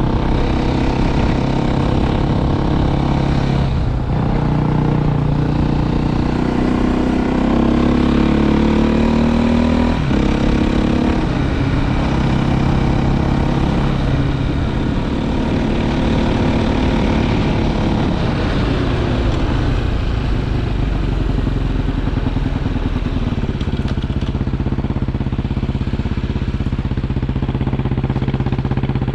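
Motorcycle engine running while riding, its pitch rising with the throttle and dropping abruptly at gear changes about 4 and 10 seconds in, then shifting again later.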